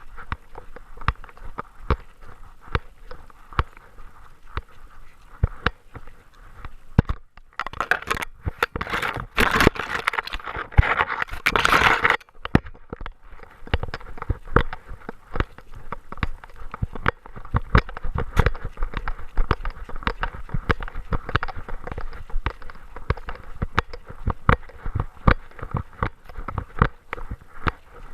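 Body-mounted action camera jostled by a walking Great Dane: a steady run of knocks and rattles from the mount, about two a second. For a few seconds near the middle, a louder stretch of dense scraping and rustling.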